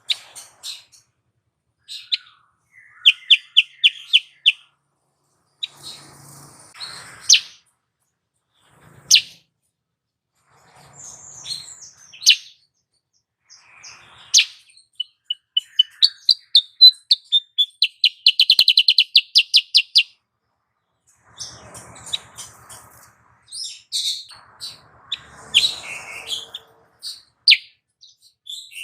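Female silver-eared mesia (kutilang sutra) calling: sharp separate chirps and short quick trills of even notes, with a longer fast trill about two-thirds of the way through.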